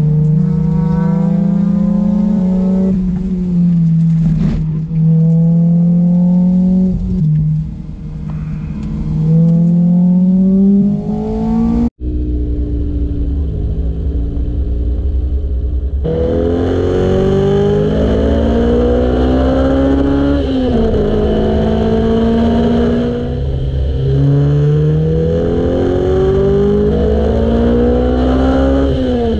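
Sports car engine heard onboard on a race track, accelerating hard through the gears: its note climbs and drops back sharply at each upshift, again and again. About twelve seconds in it cuts to a lower, steady engine note for a few seconds before the climbing runs resume.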